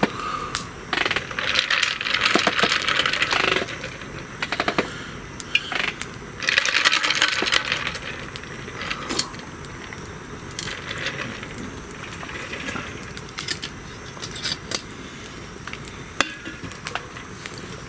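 Wood campfire crackling with many sharp pops, and spells of loud hissing that swell and fade every few seconds.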